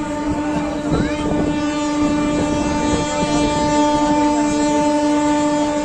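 Train horn sounding one long, steady blast at a single pitch over background rumble and noise.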